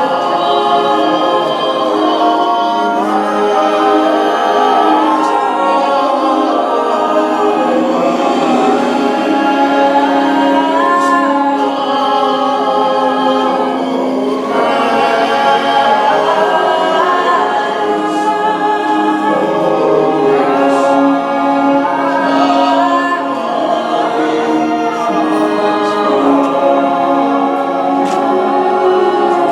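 A choir singing a sacred piece in harmony, unaccompanied, with several voices holding chords that change every second or two.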